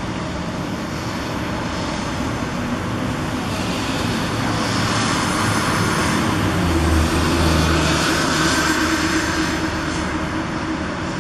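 Steady city traffic noise that swells in the middle as a vehicle passes with a low engine hum, then eases off.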